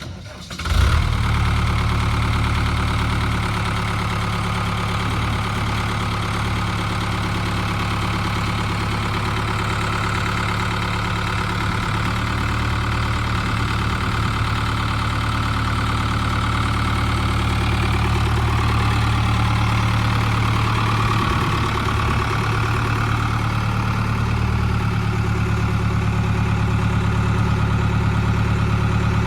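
Case tractor engine coming in abruptly about a second in, then idling steadily.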